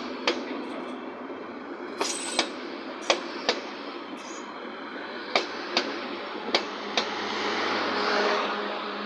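Train rolling slowly into a station, its wheels clacking over the rail joints in quick double clacks over a steady rumble. A swell of rushing noise comes up near the end.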